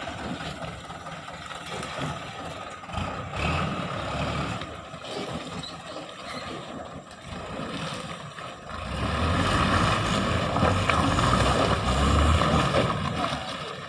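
Truck engine running, with a deep rumble that swells much louder from about nine seconds in.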